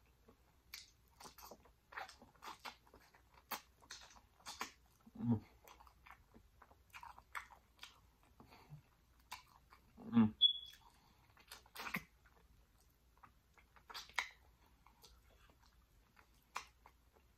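Close-miked chewing and biting: a person gnawing tender meat off jerk pig tail bones, with irregular wet mouth clicks and small crunches.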